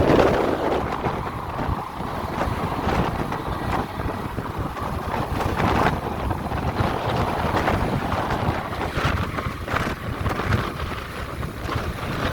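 Strong wind buffeting the microphone in irregular gusts: a loud rumbling rush.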